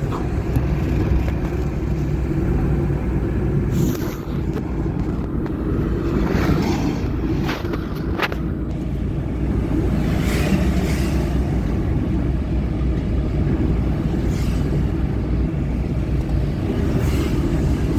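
Steady low engine and road rumble of a vehicle driving on a highway, with a few brief hissing swells.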